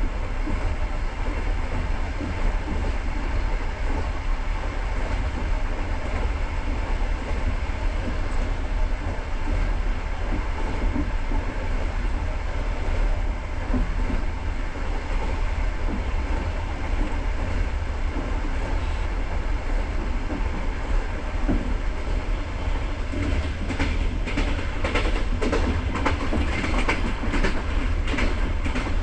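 Passenger train running along the track, heard on board: a steady low rumble of the coach with wheels clicking over the rails, and a quicker run of sharp clacks near the end.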